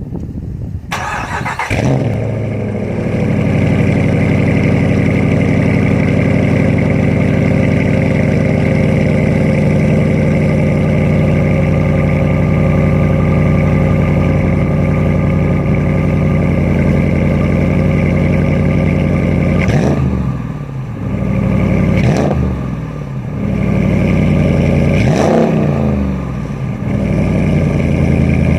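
A 2016 Ram R/T's 5.7 HEMI V8, breathing through an MBRP aftermarket exhaust, cranks and catches about a second in on a cold start. It settles into a steady idle. In the last third it is revved three times, rising and falling each time, then returns to idle.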